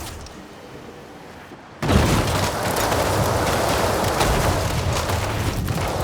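A high-speed car crash: a sudden loud blast about two seconds in, then a sustained loud, crackling rush of noise.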